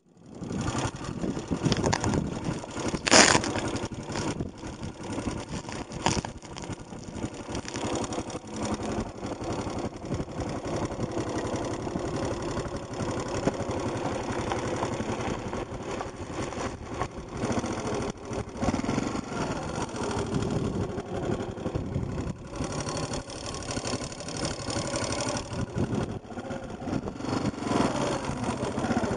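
Yamaha XT250 trail bike's single-cylinder four-stroke engine running as the bike rides along a gravel track, with a sharp knock about three seconds in.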